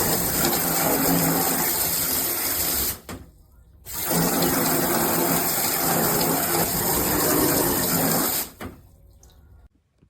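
Handheld shower head spraying water hard, a loud steady hiss. It cuts off about three seconds in, starts again a second later and stops near the end.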